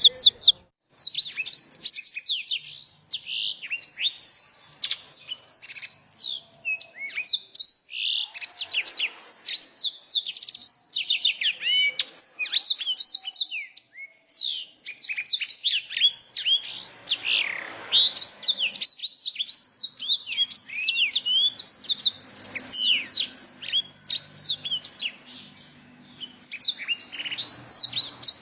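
Small songbird singing a fast, unbroken run of high chirps and quick downward-sweeping notes, with brief pauses about a second in and near the middle.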